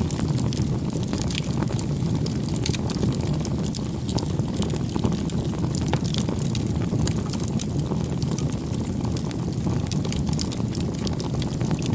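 Wood campfire burning: a steady low rush of flame with frequent small crackles and pops.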